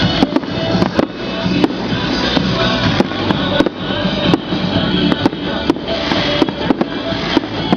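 Fireworks going off in quick, irregular succession, many sharp bangs and pops about two a second, over music.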